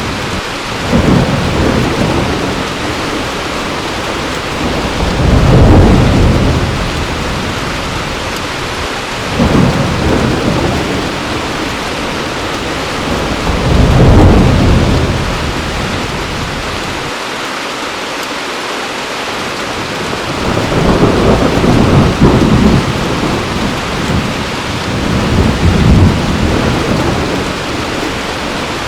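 Heavy rain falling steadily, with rolls of thunder swelling and fading about every four to five seconds.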